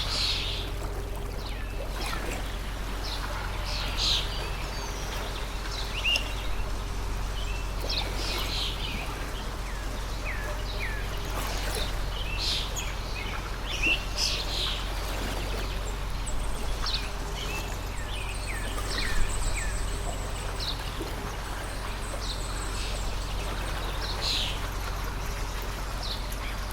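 Stream water flowing in a steady rush, with small birds chirping and calling in short, frequent notes over it.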